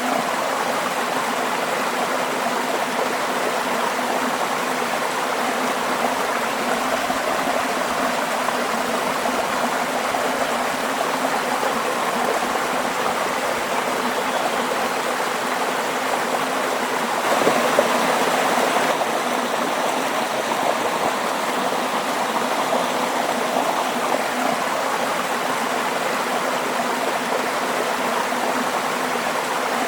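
Waterfall: water rushing and splashing in a steady, even roar of noise, swelling slightly for a couple of seconds past the middle.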